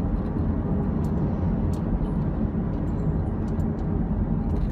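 Steady low road and engine rumble from riding along a road in traffic.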